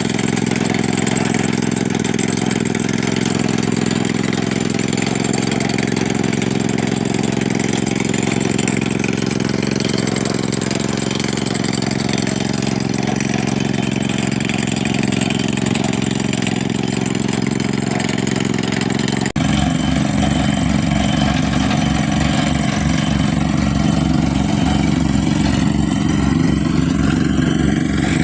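An engine running steadily. About two-thirds of the way through the sound switches abruptly to a stronger, throbbing low engine note.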